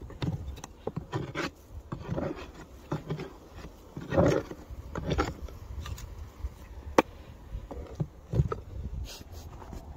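Honeybees buzzing at a hive entrance that has just been unplugged of dead bees, with irregular rubbing and scraping on the wooden hive and a sharp click about seven seconds in.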